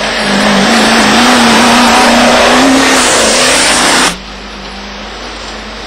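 Off-road racing Land Rover engine running hard under load, its note climbing slightly, heard close with heavy noise. The sound cuts off abruptly about four seconds in, leaving a quieter, steady engine drone.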